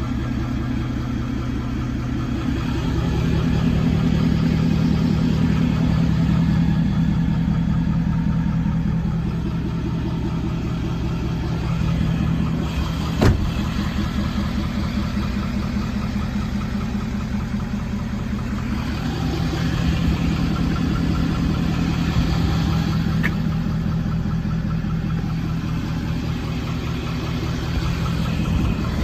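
Ford 6.7 Power Stroke V8 turbodiesel running steadily in a 2012 F-350, its sound swelling slightly twice, with a single sharp click about halfway through.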